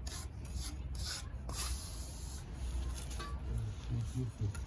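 Irregular scraping and rubbing strokes of a trowel working wet cement.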